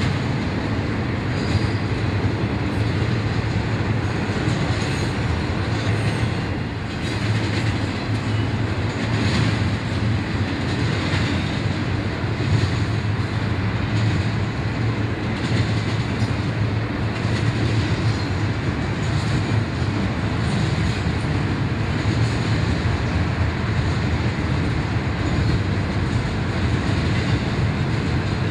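Double-stack intermodal freight trains rolling past: a steady rumble of well-car wheels on the rails, with occasional clicks.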